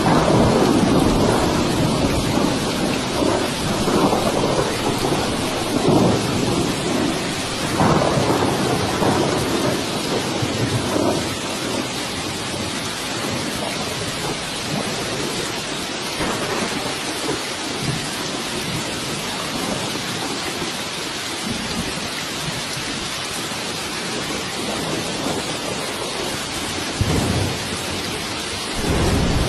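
Steady heavy rain hissing, with thunder rumbling repeatedly through the first half and once more near the end.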